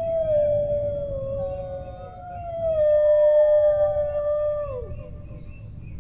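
Dogs howling. They give long, drawn-out howls that hold a steady pitch and slide down at the end, and a second howl starts before the first has finished. A low rumble runs underneath.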